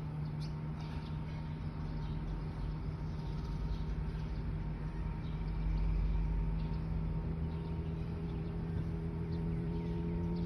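Honda CBR600RR's inline-four engine idling steadily through an SC Project aftermarket exhaust, getting a little louder about six seconds in.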